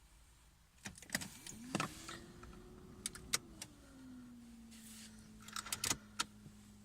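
Clicks from the ignition key and relays, and a small electric motor in a Mercedes E300 diesel whirring up to speed, dropping in pitch about three seconds in, then holding a steady hum, as the ignition is switched on to heat the glow plugs before a cold start.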